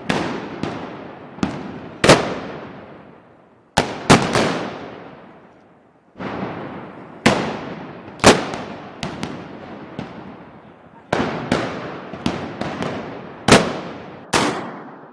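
Irregular loud gunpowder bangs, roughly one a second and sometimes two or three close together, each ringing off in a long echo as it fades.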